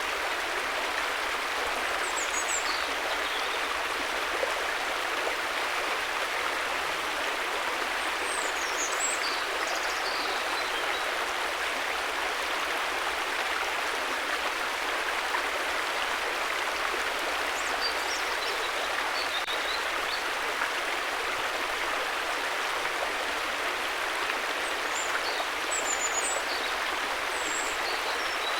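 River water flowing and rushing in a steady, even stream of sound. Faint high chirps come through above it a few times.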